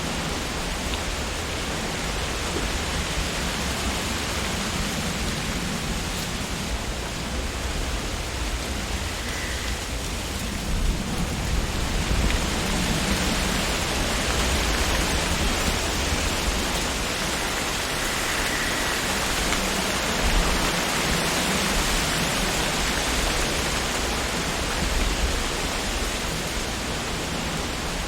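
Wind blowing through tree leaves: a steady rustling hiss with a low rumble underneath, which swells into a stronger gust about twelve seconds in and stays up.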